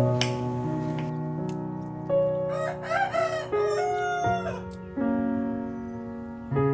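A rooster crowing once, a long call with several breaks starting about two seconds in, over soft piano music.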